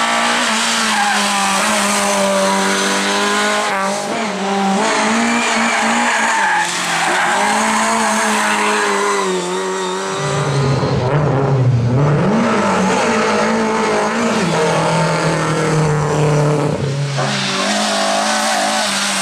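Rally car engine running hard at high revs, its pitch holding, dipping and climbing again with throttle and gear changes, mixed with tyre squeal as the car slides through bends.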